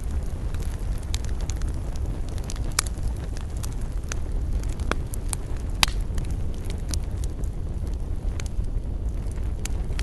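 Wood campfire crackling: scattered sharp pops and snaps over a steady low rumble, with the loudest pops about three and six seconds in.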